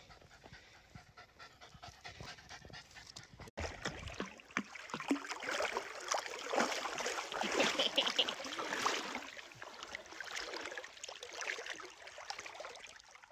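A small dog panting rapidly, faint at first and then louder and closer from about four seconds in.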